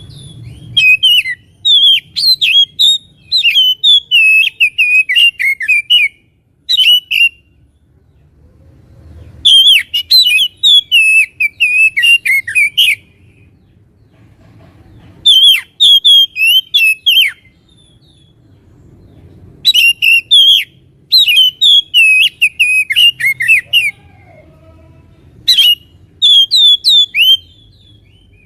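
Oriental magpie-robin singing loud, clear phrases of rapid, sharply gliding whistled notes, about seven bursts separated by short pauses.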